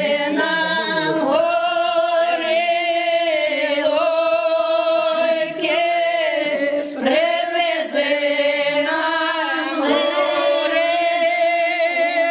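A small group of voices singing a Ukrainian folk song a cappella, in long held notes with two or more parts in close harmony and short breaths between phrases.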